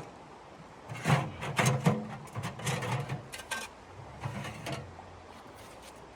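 Irregular knocks, clicks and scrapes of objects being handled, in several short bursts.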